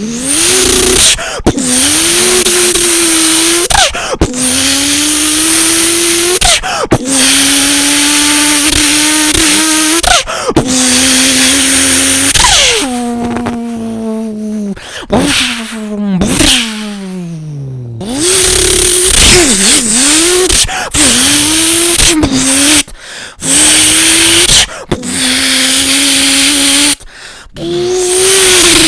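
A person's voice imitating a Toyota Supra mk4 2JZ engine. It does several long revving pulls that climb slowly in pitch, each broken off suddenly like a gear change, then winds down in falling pitch. Shorter rev blips follow in the second half.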